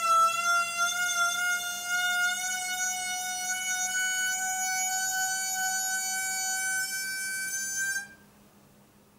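A toilet refilling after a flush gives a loud, horn-like whine in its water supply that rises slowly in pitch, then cuts off suddenly about eight seconds in. The owner wonders whether it is air in the line.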